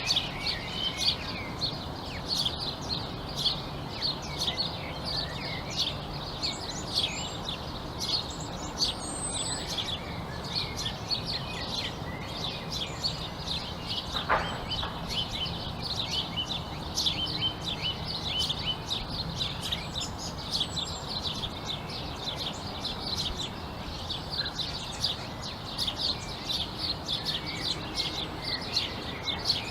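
Many small birds chirping and twittering at once in a dense, continuous chorus, with one sharp, louder call about fourteen seconds in, over a low steady background noise.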